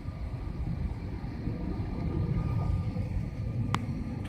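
Steady low rumble of engine and airflow noise inside an airliner cabin on the landing approach, with one sharp click near the end.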